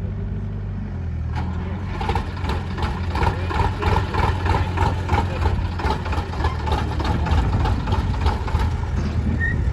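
Heavy diesel engine running steadily, then picking up load and getting louder about a second in. A dense clatter of rattles and knocks runs over it.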